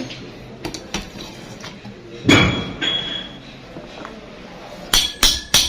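Hammer striking the metal pulley assembly of a car AC compressor as it is fitted. A loud ringing clank comes a little over two seconds in and a lighter one follows. Near the end a quick run of sharp ringing taps starts, about three a second.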